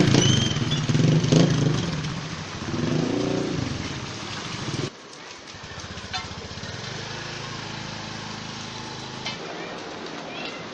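Motorcycle engine running close by, loudest in the first seconds, with its pitch swinging up and down around three seconds in. It cuts off abruptly about five seconds in, leaving a quieter street background with a steady low hum.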